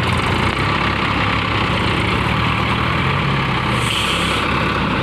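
Tractor engine running steadily, with a brief hiss about four seconds in.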